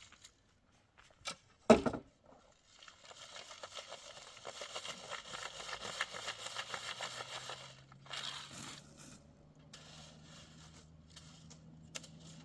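A single sharp knock, then several seconds of rough scraping and crinkling from hand work on materials, with a faint steady low hum starting about halfway through.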